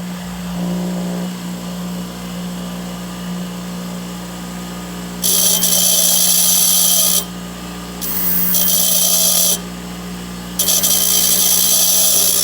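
Power grinder motor running with a steady hum while a TIG tungsten electrode is sharpened to a point. The tungsten is pressed to the wheel three times from about five seconds in, each contact a loud grinding hiss of about two seconds.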